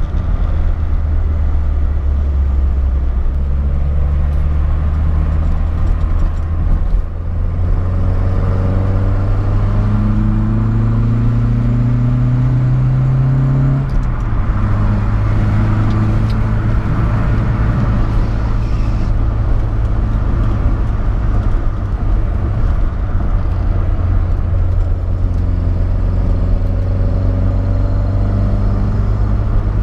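BMW 2002's M10 2.0-litre four-cylinder engine with a Solex 40 PHH carburettor, heard on board while driving: the revs climb for several seconds, drop sharply about fourteen seconds in at a gear change, then hold fairly steady.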